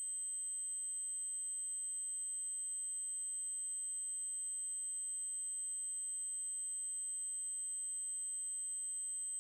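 A steady, high-pitched 8192 Hz triangle-wave tone, electronically generated, holding one pitch without a break.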